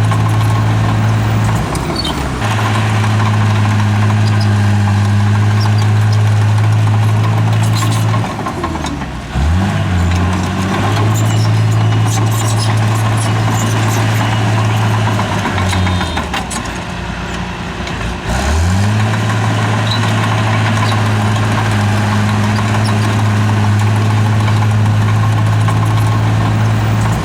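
Heavy diesel engine of a bulldozer running hard under steady load. Twice the revs sag and then climb back up, and there are scattered knocks throughout.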